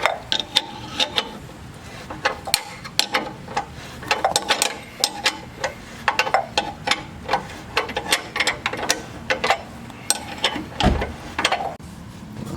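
Hand ratchet wrench clicking in short, uneven runs as a bolt is worked loose on the Jeep's suspension, with one dull thump near the end.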